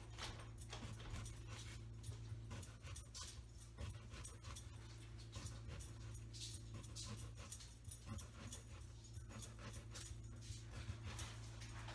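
A dog panting in short, irregular breaths over a steady low hum.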